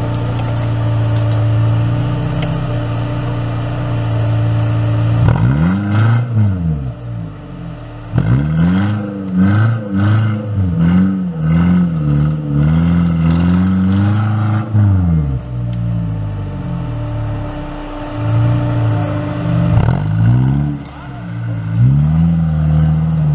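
Off-road 4x4's engine running steadily, then revved again and again from about five seconds in, the pitch climbing and dropping with each blip. It settles for a few seconds, then revs repeatedly again near the end.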